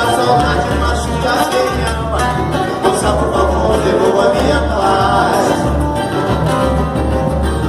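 Band music with a pulsing bass beat.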